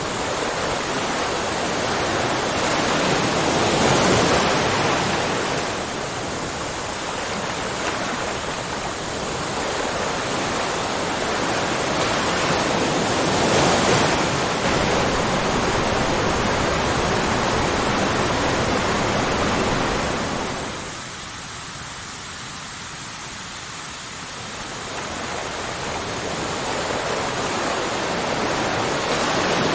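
Waterfall rushing, a dense, continuous roar of falling water that swells and eases every few seconds and drops to a quieter stretch about two-thirds of the way through before building again.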